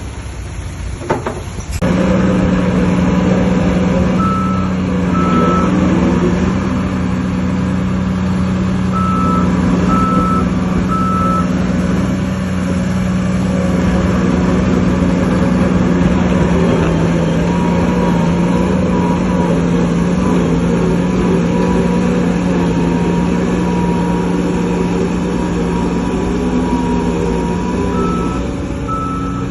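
Heavy diesel engine of a bulldozer or dump truck running loudly and steadily, louder from about two seconds in. A reversing alarm beeps about once a second in a few short runs.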